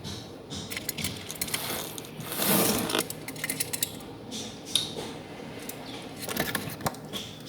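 Irregular small clicks and scratches, with a louder rustling burst about two and a half seconds in: a pet bird moving about and scratching inside a box.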